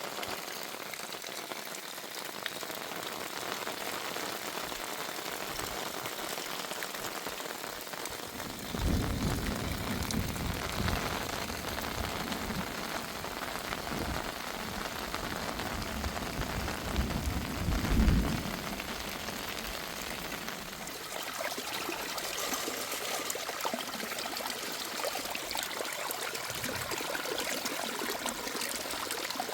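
Rain falling steadily on a surface. About nine seconds in, a low rumble rises, swells to its loudest around eighteen seconds, then dies away.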